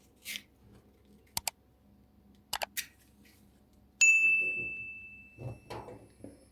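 Kitchen items being handled: a few light clicks and taps, then one loud bright ding about four seconds in, a hard object striking something that rings and fades over about a second and a half, followed by soft handling sounds.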